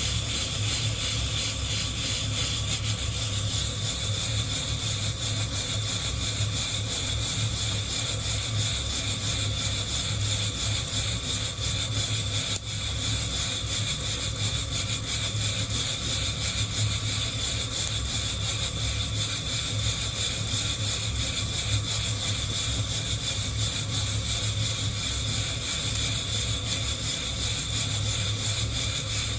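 Coffee beans rattling and rustling against a hand-held wire-mesh roasting net shaken continuously over a gas flame, over a steady low hum.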